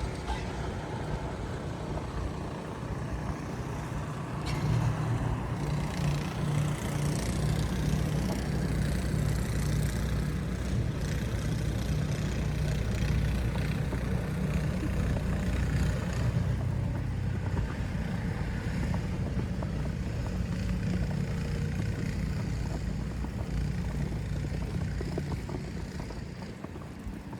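A heavy road vehicle's engine running close by, a low steady drone that grows louder about four seconds in and fades away near the end, over a hiss of city traffic.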